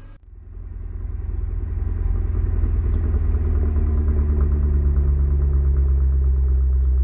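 Vehicle engine running steadily with a deep, low note, growing louder over the first two seconds and then holding level.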